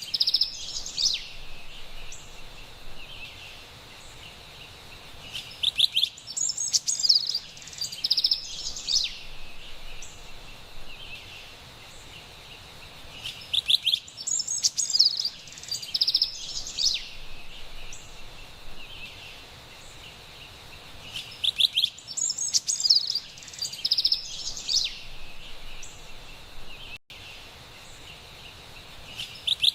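Carolina wren singing: bursts of repeated song phrases about every seven or eight seconds, over a steady high background hiss.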